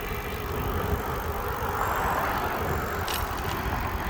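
Bicycle riding along: a steady rolling noise with an irregular low rumble on the microphone, and one short click about three seconds in.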